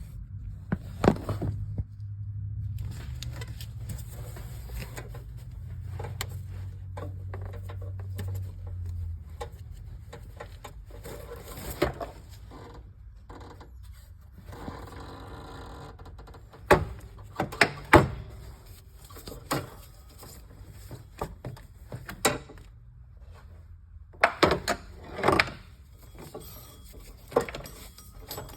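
Hand tools clinking and knocking against metal during work on a car engine's drive belt, in irregular sharp knocks with a few louder clanks. A low hum runs under the first nine seconds or so.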